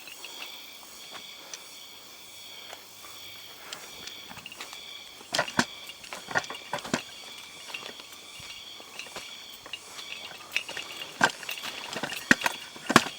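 Footsteps crunching on dry forest litter at irregular intervals, over a steady high-pitched insect drone.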